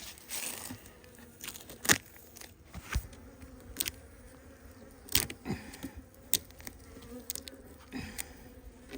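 Honeybees buzzing in a faint, steady hum around the newly moved hives, broken by several sharp clicks and knocks, the loudest about two seconds in.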